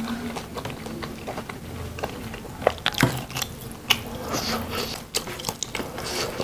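Close-up mouth sounds of chewing a mouthful of fried chicken: wet clicks and smacks, with a few sharper clicks in the middle.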